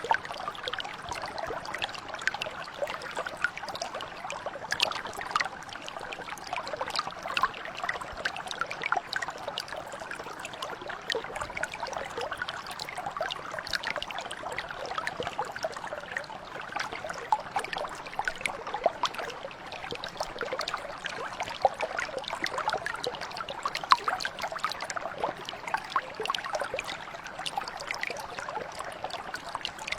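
Small mountain brook flowing over stones: a steady babble of running water, with many small splashes and trickles on top.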